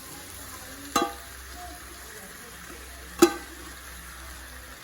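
Chicken pieces sizzling in hot oil and masala in a pan while a metal spoon stirs them, striking the pan with a ringing clank twice, the second louder.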